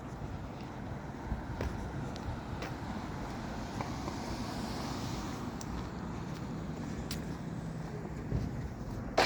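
Steady rumble of road traffic from passing cars, with some wind on the microphone and a few light clicks.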